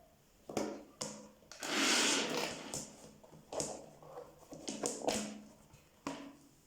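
Handling noises: a scattering of sharp clicks and knocks, with a louder rushing or scraping noise lasting about a second, about two seconds in.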